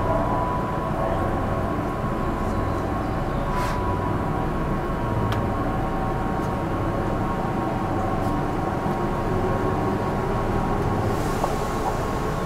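Keihan 8000 series electric train standing still with its doors open, heard from inside the car: its onboard equipment keeps up a steady hum with a thin steady tone. A few faint clicks sound, and a short hiss of air comes near the end.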